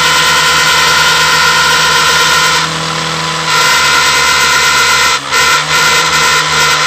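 Motorcycle exhaust blown through two joined silencers, giving a loud, steady, droning tone. It shifts and softens for about a second near the middle, then cuts out briefly twice near the end.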